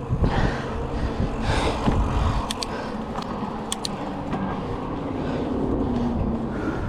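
A 2007 Cannondale Rush mountain bike rolling along a dirt trail: steady tyre and wind noise, with the bike rattling over bumps in the first two seconds and a few sharp metallic ticks around the middle.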